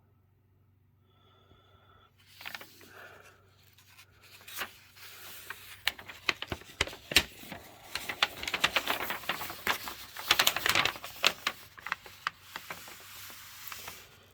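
Packing materials and papers being handled: rustling and crinkling with many small clicks and crackles, starting about two seconds in and busiest in the middle.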